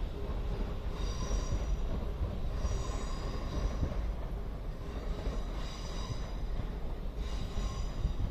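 London Northwestern Railway Class 350 Desiro electric multiple unit running past with a steady low rumble. Short high-pitched wheel squeals recur about every one and a half seconds.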